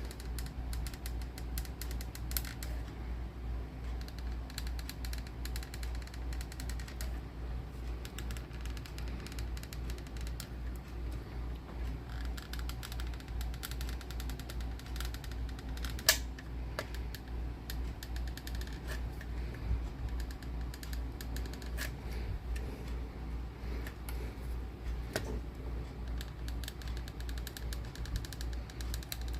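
Hot glue gun in use: small creaks and clicks from the trigger and glue-stick feed, with one sharper click about halfway through, over a steady low hum.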